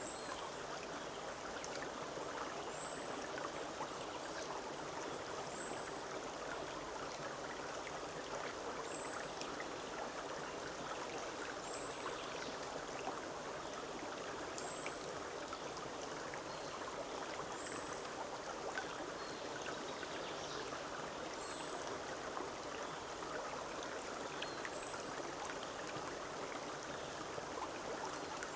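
Forest stream running steadily over stones, a continuous babble and splash of water. A high, thin bird note repeats about every three seconds.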